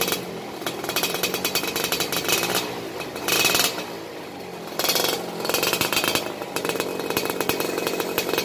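Suzuki Satria two-stroke motorcycle engine running through its modified exhaust, the standard silencer packed with white glass wool, with a fast rattling exhaust note. The throttle is blipped twice, about three and five seconds in, dropping back between the blips.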